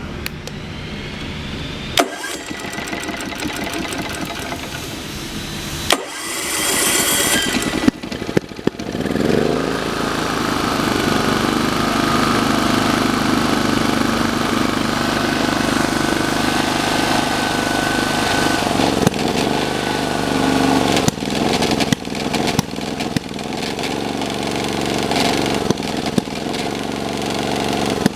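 Engine of a T2500H camping car being cranked, catching about eight seconds in, then running steadily, with a few sharp knocks here and there. The engine is being checked for an abnormal noise.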